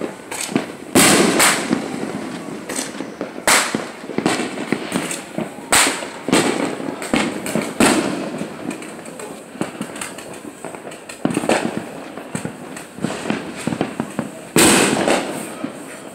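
Fireworks going off: a series of loud, sharp bangs, the strongest about one, three and a half, six, eight and fifteen seconds in, with smaller pops and crackling between them.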